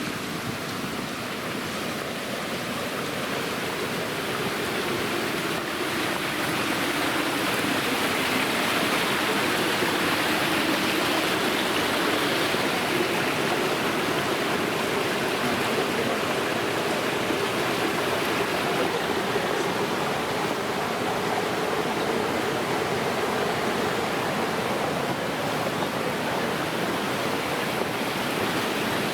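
Rushing water of a waterfall, a steady noise that grows louder over the first several seconds and then holds.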